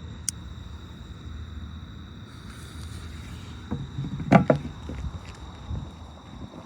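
Handling noise and a few knocks, the loudest cluster about four seconds in, over a steady low rumble.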